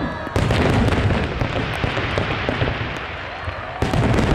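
Aerial fireworks bursting: a loud burst about a third of a second in, followed by dense crackling for about three seconds, then another burst near the end.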